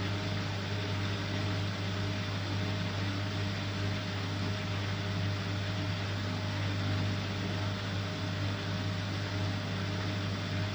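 Bosch Aqua Star washing machine running with a steady low hum and an even whir, unchanging throughout.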